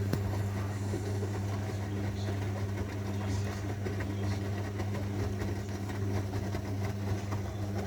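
Zanussi washing machine giving off a steady, even low hum over a wash of water noise, the mains-motor hum typical of its drain pump pumping out water.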